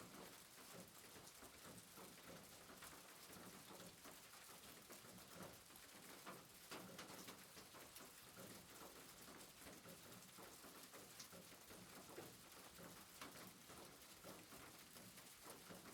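Faint soft rain: a steady, even hiss with light, irregular pattering of drops.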